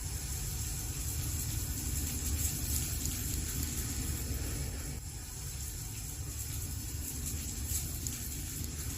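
Wood fire burning in a fireplace: a steady low rumble and hiss with faint crackles scattered through it.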